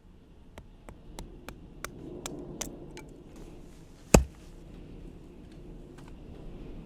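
Chopping: a run of light, quick taps, then one loud, sharp chop about four seconds in.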